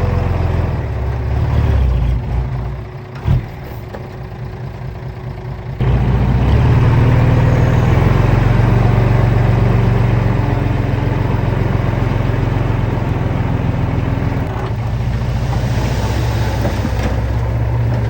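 Heavy diesel engine of earthmoving machinery running steadily. It drops off about three seconds in with a sharp knock, then comes back louder and holds steady from about six seconds in.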